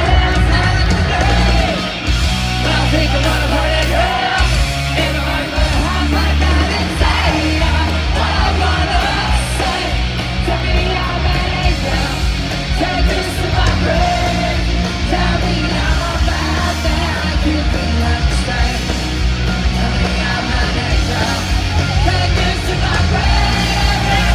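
A rock band playing live, loud and fast, punk-style rock with yelled vocals.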